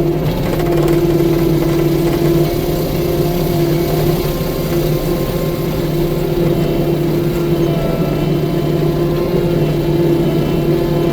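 An engine running steadily at an even speed, with a constant pitch throughout.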